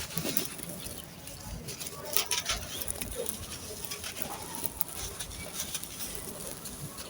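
Dry sand-cement crumbling and crunching, a run of gritty crackles and small cracks, loudest about two seconds in.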